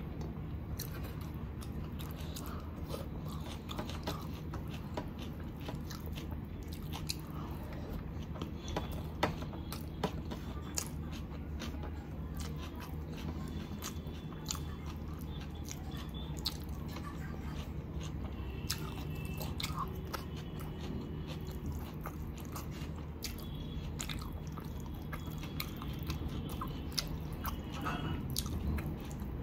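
Close-miked eating sounds: a person chewing and biting chicken biryani, with many small wet clicks and crunches scattered throughout over a steady low hum.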